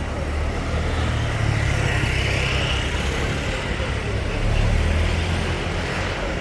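Street traffic: motor vehicles passing close by, a low engine rumble with tyre and road noise that swells twice.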